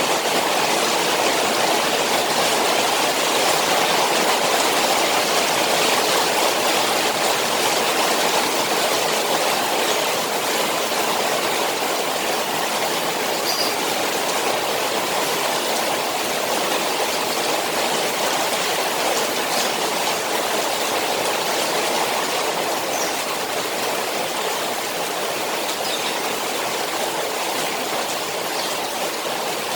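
Rain falling on a koi pond: a steady, even rush of water.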